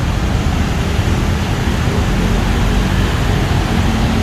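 Busy city-street traffic: a steady mix of vehicle engines and tyres on a wet road, with a constant low rumble.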